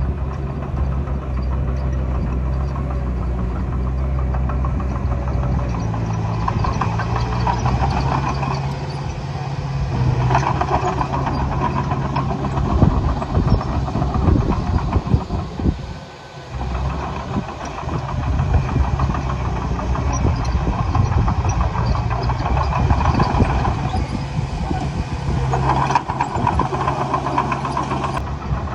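Diesel engine of heavy earthmoving machinery running steadily. About ten seconds in comes a stretch of clanking and knocking, and the engine sound drops briefly about sixteen seconds in.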